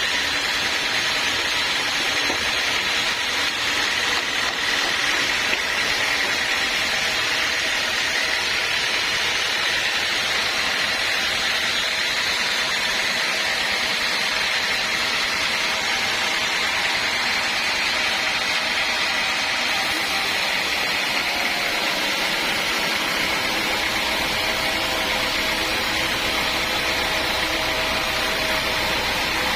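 Sawmill machinery running steadily, a constant loud hiss with faint whining tones over it. A low hum joins about 23 seconds in.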